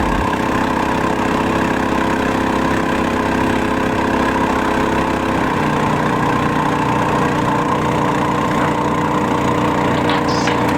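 Predator 224cc single-cylinder engine on a long-tail mud motor running steadily, its tone shifting about halfway through.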